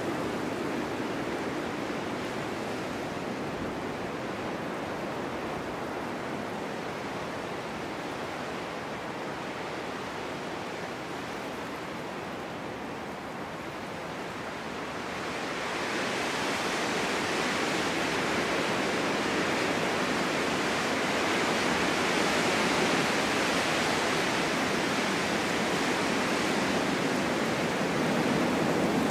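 Snowstorm wind blowing steadily, swelling into a stronger, brighter gust about halfway through.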